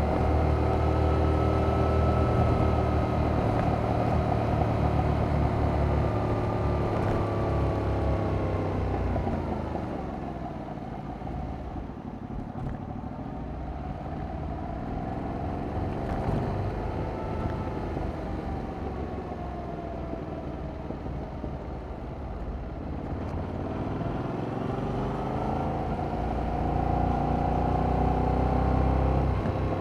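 2021 Yamaha MT-07's parallel-twin engine through its stock exhaust, heard from on the bike. It pulls strongly at first, then the revs fall and it runs quieter for about twelve seconds before the revs climb again near the end.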